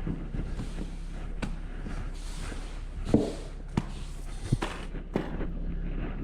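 Five or so irregular sharp knocks and clatters, the loudest about three seconds in, with a brief rustling hiss between them over a steady low hum.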